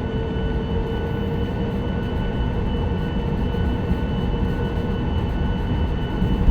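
Steady cabin noise inside a Boeing 737-9 MAX jetliner: a continuous low rumble and air hiss with a few steady whining tones.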